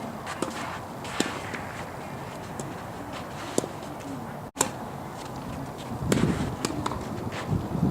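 Tennis balls struck by rackets during a doubles rally: sharp pops a second or more apart, over a steady rush of wind noise. A voice calls out near the end.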